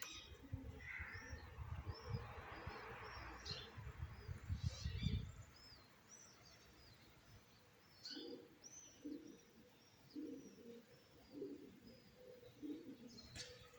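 Small birds chirping, many short high chirps in quick succession. A low rumble runs under the first five seconds, and a series of low, short pulses follows in the second half.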